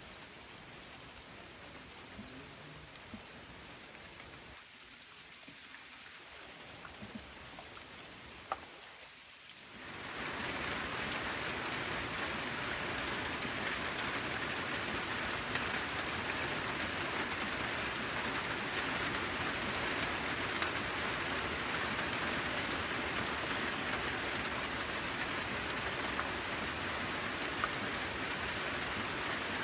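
Steady rainfall: a light patter with scattered drips at first, then about ten seconds in a heavier, denser downpour sets in abruptly and holds steady.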